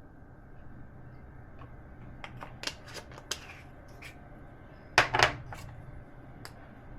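Kitchen utensils and dishes being handled during cooking prep. There are scattered light clicks and knocks, the loudest a quick double knock about five seconds in, over a low steady hum.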